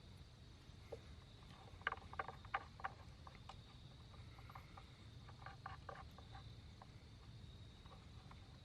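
Faint clicks and light knocks of something being handled, in two short clusters, over a low steady hum.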